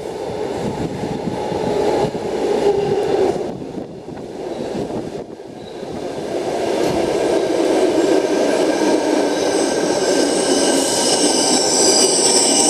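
Sydney Trains Tangara electric train pulling into an underground platform, its rumble building. High-pitched wheel and brake squeal rises over the last few seconds as it slows.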